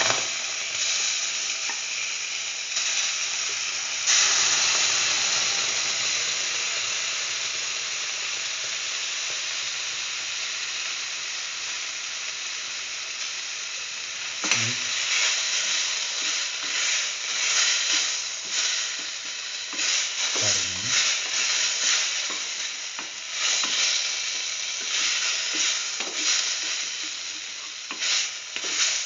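Boiled yam and chayote pieces sizzling in hot oil in a steel pan, a steady frying hiss that gets louder about four seconds in. From about halfway on, a spatula stirs and scrapes through them in irregular strokes, so the sizzle rises and falls.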